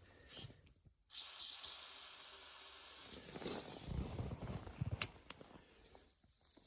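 Aerosol can of starting fluid hissing in a steady spray for about two seconds, priming the intake of a Lincoln SA-200 welder's cold engine, followed by faint handling rustles and a sharp click.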